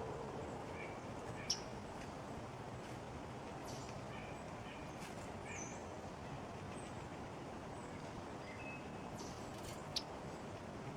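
Small songbirds at a feeder giving short, scattered chip and call notes over steady outdoor background hiss, with two sharp clicks, one about a second and a half in and one near the end.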